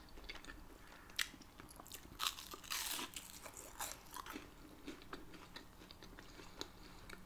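Biting into and chewing a char-grilled cheese quesadilla, giving faint, scattered sharp clicks of teeth through the toasted tortilla and of mouth sounds. They come thickest between about two and three seconds in.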